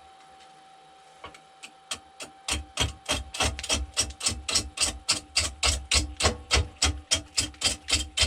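A turning tool knocking against a poplar log spinning on a wood lathe, striking about four times a second. The knocks start faint about a second in and grow louder. The log is still out of round, so the tool cuts only the high spots once per revolution.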